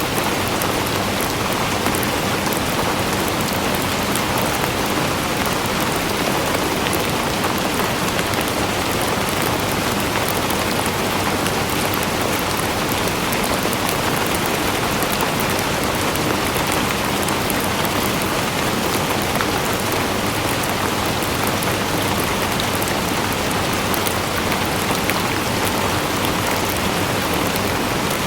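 Rain falling steadily: a dense, even hiss of many drops with fine individual drop ticks, no let-up.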